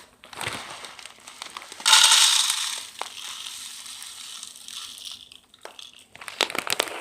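Birdseed poured onto a plate: a rush of small seeds pattering down, loudest for about a second starting two seconds in, then trickling more quietly. Crisp crinkling and clicking follow near the end.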